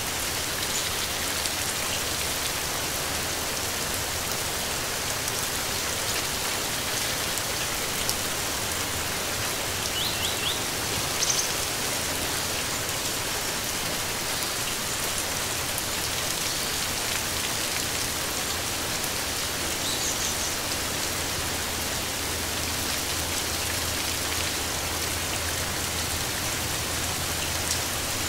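Steady rain falling, an even hiss of drops, with a few faint short bird chirps now and then.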